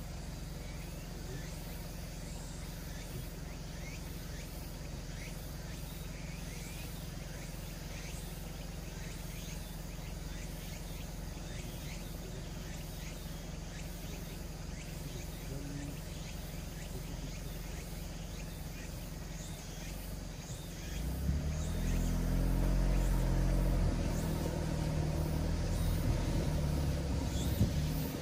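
Mitsubishi Delica D:5's clean-diesel engine and drivetrain running as the vehicle drives slowly along a forest track, a steady low hum. About 21 seconds in, the low rumble grows clearly louder and stays up.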